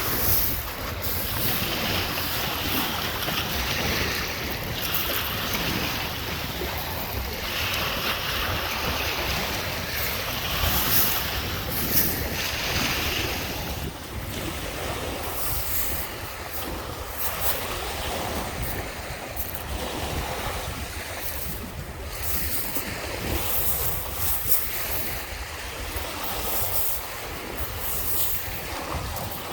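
Lake Michigan waves washing onto the beach, surging every few seconds, with wind rumbling on the microphone.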